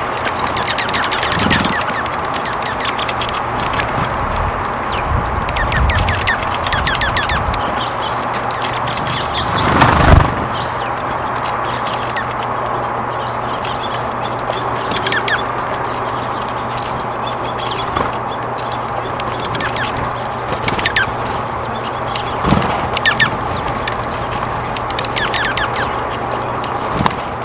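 Small songbirds chirping in short, scattered calls over a steady background haze, with a louder rustle about ten seconds in.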